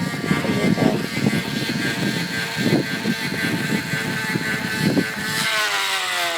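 Empty plastic water bottle jammed against a BMX bicycle's spokes, buzzing like a motorbike engine as the wheel turns. The buzz holds steady, then falls in pitch over the last second or so as the bike slows.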